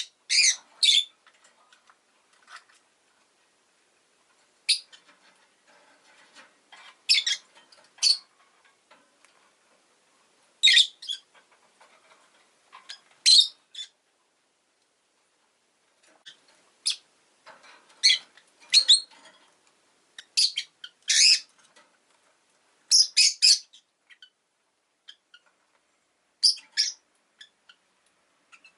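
Rosy-faced lovebird (peach-faced lovebird) giving short, shrill chirps, singly and in quick runs of two or three, with pauses of a second or more between them.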